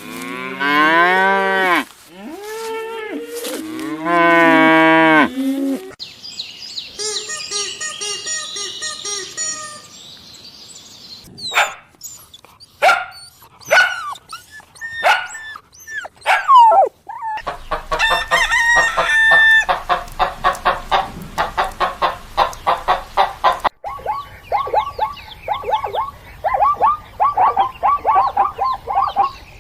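Farm animal calls in a run of separate clips: long, low pitched cattle moos in the first few seconds, then chickens crowing and clucking in quick, rapid bursts.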